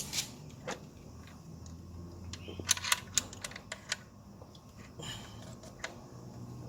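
Scattered sharp clicks and taps, bunched most tightly about three seconds in, as plastic parts and fastenings are handled and fitted back in a car's engine bay, over a faint low hum.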